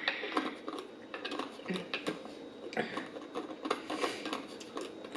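Rapid irregular clicks and crinkles of takeout food packaging being handled and pressed while a container that will not close is worked at.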